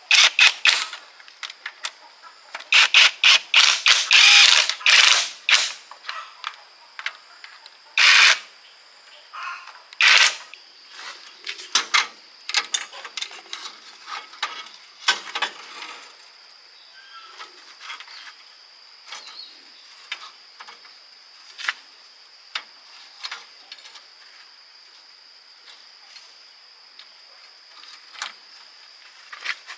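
Metal tools and gearbox parts clinking and clanking as they are handled: a quick run of sharp knocks in the first few seconds, then scattered lighter clicks, over a faint steady high whine.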